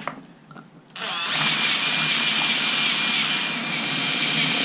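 Cordless drill starting about a second in and running steadily with a whine, boring through the wing's outer and inner skins into the servo pocket.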